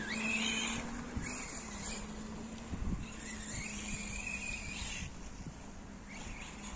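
Electric RC car's motor whining, its pitch rising and falling as the car speeds up and slows, over steady wheel and ground noise.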